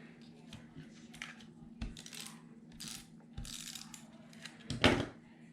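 Paper and crafting pieces being handled on a table: brief rustles of paper sliding and light clicks and knocks, with a louder knock shortly before the end. A faint steady hum runs underneath.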